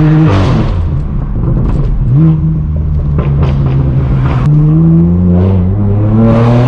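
Straight-piped BMW M4 F82's twin-turbo inline-six: the engine comes off throttle just after the start, the exhaust gives a few sharp pops and crackles on the overrun, then the engine pulls again with its note rising near the end. The pops come from a Stage 2 tune set up for pops and crackles.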